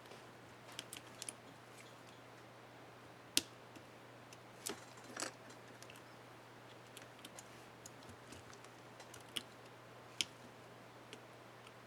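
Small plastic clicks and snaps from an HP DM4 laptop keycap and its hinge clips being handled and fitted, scattered and irregular, the sharpest about three seconds in.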